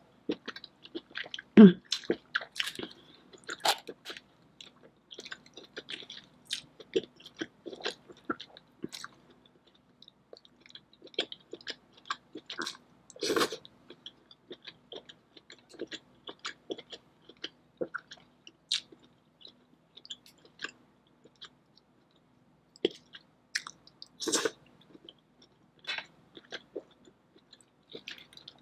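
Close-miked chewing of seafood-boil shellfish meat in butter sauce: wet, irregular mouth smacks and clicks, with a few louder bites. A faint steady hum runs underneath.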